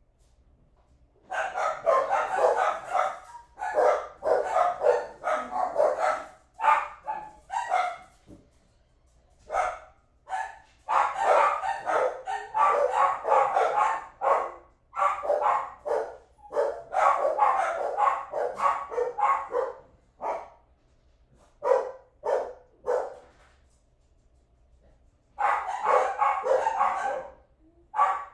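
A dog barking over and over in long runs of quick barks, with a few short breaks between runs.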